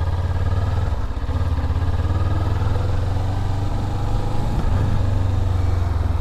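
Motorcycle engine running at low revs with a steady low pulsing exhaust as the bike is ridden slowly through tight turns.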